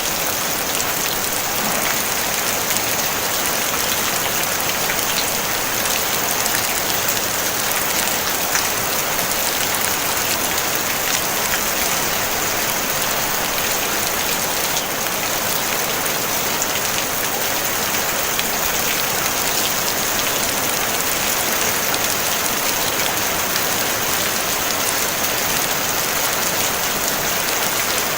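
Steady rain falling on a tin roof: a dense, even hiss of drops with many small ticks, no thunder.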